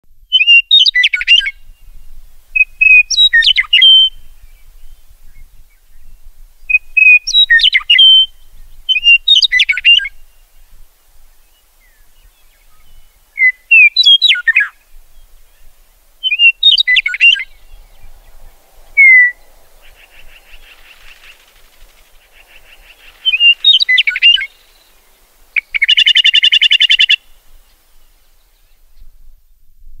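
Songbirds singing short, chirping phrases every two to three seconds, with pauses between them. A buzzy trill comes near the end.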